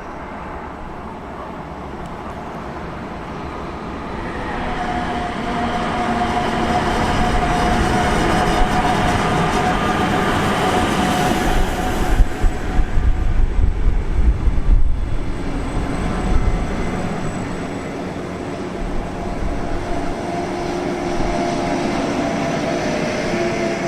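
A train passing close by: a rumble builds, peaks with uneven clattering about halfway through, then eases off, with a steady whine running through it.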